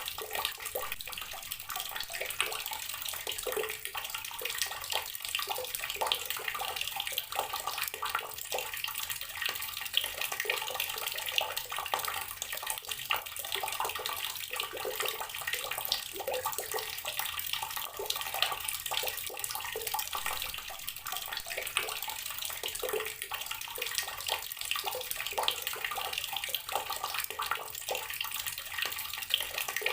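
Water from a tap pouring steadily into a container of water, a continuous splashing stream.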